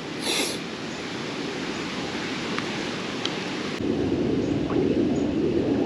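Strong wind blowing on the microphone, a steady rushing noise that turns into a louder low rumbling buffet about four seconds in.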